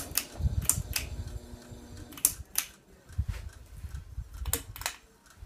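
Hugger ceiling fan switched off and coasting down: a series of sharp, irregular clicks over a low rumble that fades near the end.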